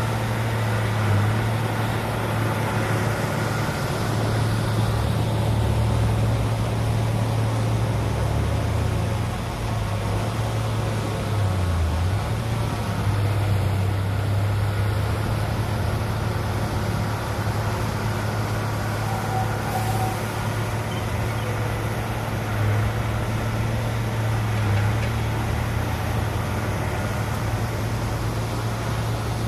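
Heavy diesel engine of earthmoving equipment running steadily with a low hum, its pitch dipping briefly about ten and twelve seconds in as the load changes.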